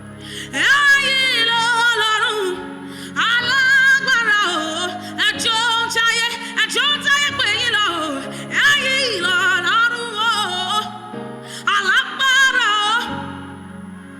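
Gospel worship singing: a high solo voice sings phrases with wavering, sliding pitch, broken by short pauses, over sustained keyboard chords.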